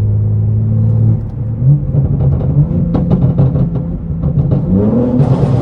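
BMW S58 twin-turbo straight-six running through an IRL full single-pipe valved exhaust with the valve open. It holds a steady note for about a second, then the engine note changes and crackling burbles come through the middle. Near the end the pitch rises as it accelerates, with a brief hiss.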